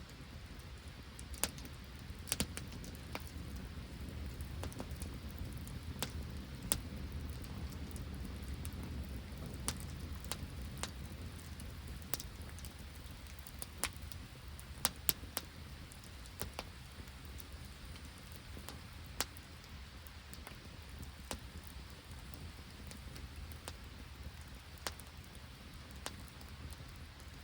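Open wood fire burning in falling rain and sleet: a steady low rumble with sharp, irregular crackles and pops.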